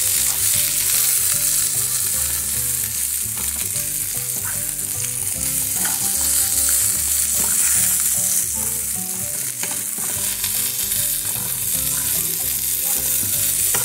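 Onion sizzling as it is sautéed in hot fat in a frying pan, browning, with occasional clicks of the utensil against the pan as it is stirred.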